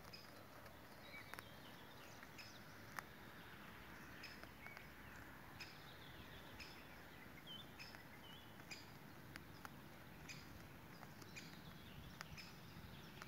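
Faint bird chirps, short and high, repeating about once a second over a quiet outdoor background hiss, with a few soft clicks.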